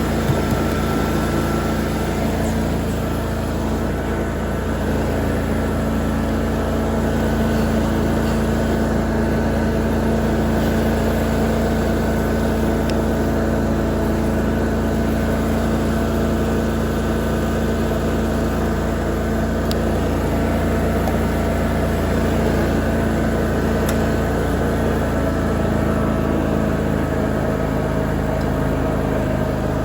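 Lawn mower engine running at a steady speed while mowing, with an even drone and no change in pitch.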